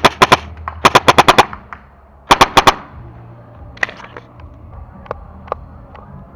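Paintball marker firing tracer paintballs in three quick strings of shots, the middle one about seven shots in half a second, followed by fainter single clicks.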